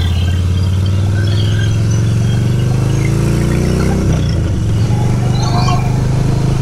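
Motorcycle engines running at road speed, one climbing in revs and then dropping sharply about four seconds in, as at a gear change, before running on steadily.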